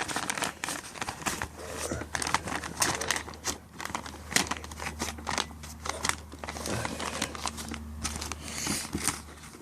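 Paper vacuum-cleaner dust bag being handled, crinkling and rustling in irregular bursts, over a low steady hum.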